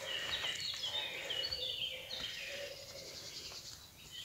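A songbird singing: a quick run of short, high chirping notes in the first two seconds, then fainter, over faint woodland background sound.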